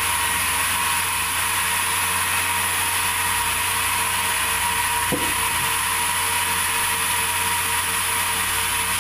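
Sawmill machinery running steadily, a continuous mechanical hiss and hum with a steady tone, and one brief sharp sound about five seconds in.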